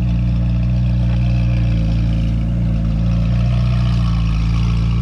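Car engine running steadily at idle, a deep even drone with no revving.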